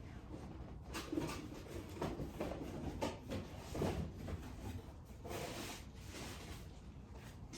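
Irregular knocks, bumps and scraping of wooden beehive frames and boxes being handled.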